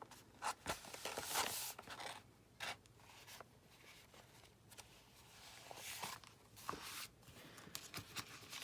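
Sheets of paper being handled: scattered soft rustles and a few light clicks as a stack of loose journal pages is shifted and lined up.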